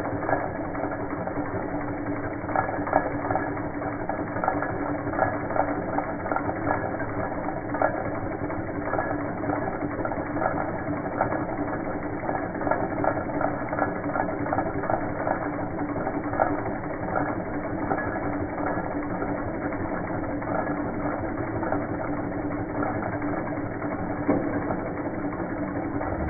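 Two small Stirling engines running: a steady mechanical clatter of many quick ticks over a steady hum.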